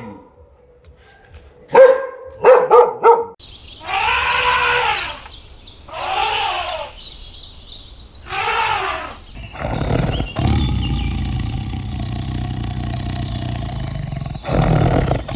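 A dog barks a few times, then long animal calls that rise and fall in pitch, followed by a steady low rumble.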